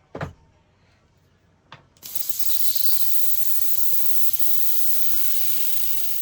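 Airbrush spraying: a steady, loud hiss of air and fluid lasting about four seconds as it is test-fired after cleaning, flushing through the liquid just put in its cup. Two short clicks come before the spraying starts.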